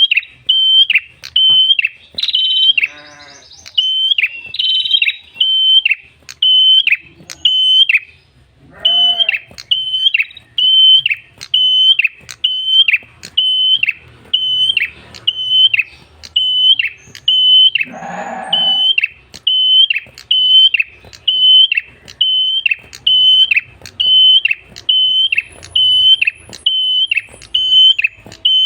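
Prenjak kepala merah, a small songbird, calling in a long, even series of short, sharp, high notes, about one and a half a second. A few brief lower calls break in, the clearest about 18 seconds in.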